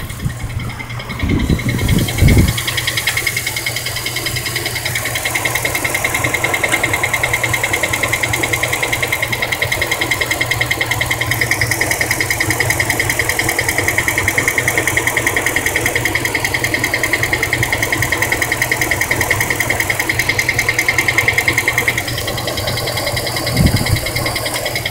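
2003 Dodge Durango engine running with a rapid, even ticking. The owner traced the noise to low transmission fluid. A few thumps near the start.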